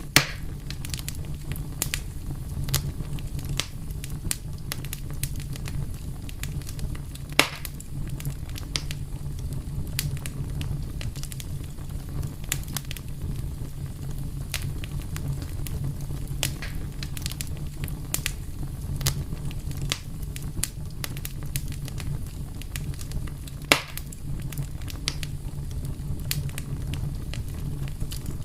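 Wood fire burning with a steady low rumble and frequent scattered crackles, a few louder sharp pops among them.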